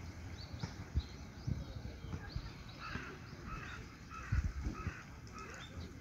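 A bird gives a run of about half a dozen harsh, evenly spaced calls through the middle stretch, while small birds chirp thinly and high in the background.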